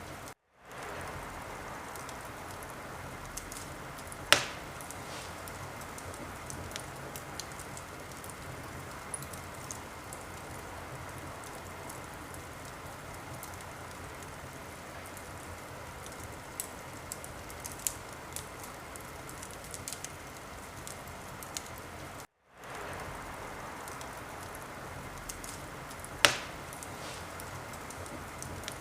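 Wood fire burning in a fireplace: a steady hiss with scattered small crackles and two loud sharp pops, one about four seconds in and one near the end. The sound cuts out to silence for a moment twice.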